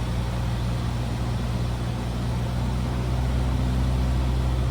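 Cessna 172R's four-cylinder Lycoming engine and propeller running at a steady drone in flight, heard inside the cockpit.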